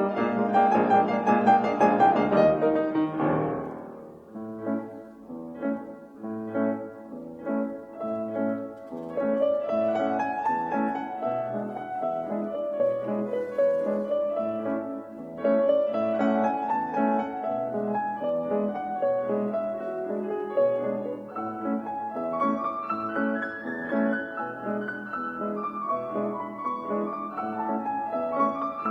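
Classical-style piano music with flowing runs that rise and fall over a steady bass line; it is fuller and louder for the first few seconds, then drops to a softer passage.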